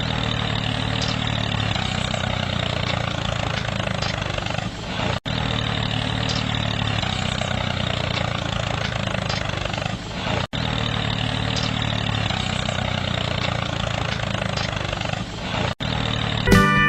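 A motor running steadily with an even hum and hiss. It cuts out sharply for an instant about every five seconds, as if the same stretch repeats.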